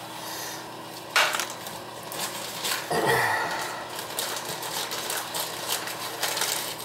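Hand tools and metal fittings clicking and knocking while a toilet's corroded supply shutoff valve is worked on, with a sharp knock about a second in, a louder scrape about three seconds in, and light ticking after.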